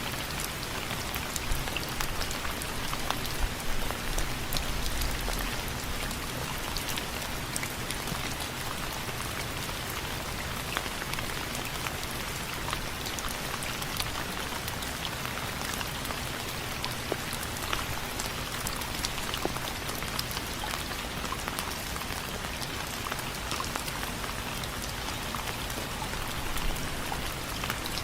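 Steady rain falling on window frames, a dense hiss dotted with the sharp ticks of single drops. A few louder hits and a short low rumble come about four seconds in.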